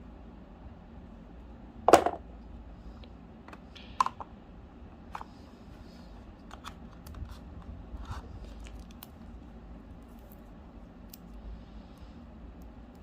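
Smartwatch box contents being handled: a sharp click about two seconds in and another about two seconds later, then scattered lighter clicks and scraping of small hard parts.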